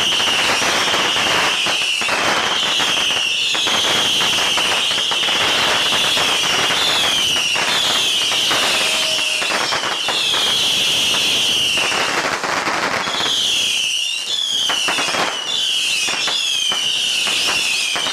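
A barrage of whistling fireworks: shrill whistles follow one another about once a second, each sliding slightly down in pitch, over continuous crackling and popping.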